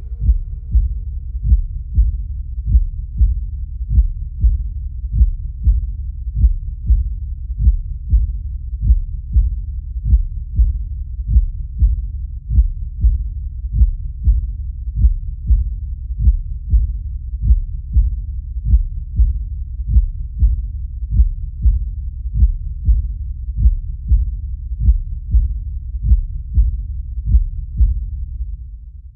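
Low, muffled heartbeat thumping at a steady pace, a beat about every three-quarters of a second, over a low rumble. It fades out near the end.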